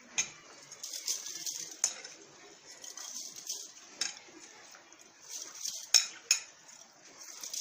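Clinks and knocks of a utensil against a pot and strainer as rice is scooped in for steaming, with a few sharper knocks, the loudest a pair about six seconds in.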